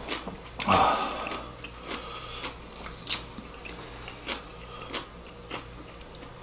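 Close-up eating sounds of soft, saucy braised fish and radish being chewed: wet mouth smacking with scattered sharp clicks. The loudest, a brief wet noise, comes about a second in.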